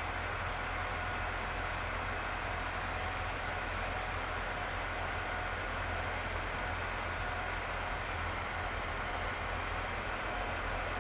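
Steady low hum of a railway locomotive standing and running, with a faint steady whine over it. A small bird gives two short high chirps, about a second in and again near the end.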